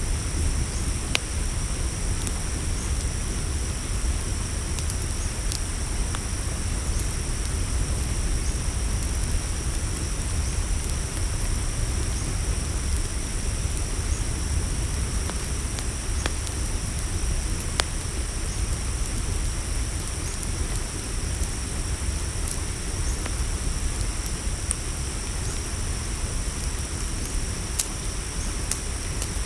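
Crickets chirring steadily at night over a campfire's crackle: a few sharp pops scattered through, above a steady low rumble.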